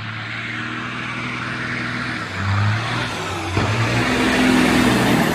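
Motor vehicle engine running with road noise, growing gradually louder, its hum shifting in pitch a couple of times.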